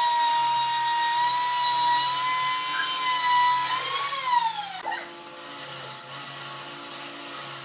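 An electric power tool's motor whining steadily at a high pitch; about four seconds in its pitch rises briefly, then falls away, and it cuts out about five seconds in.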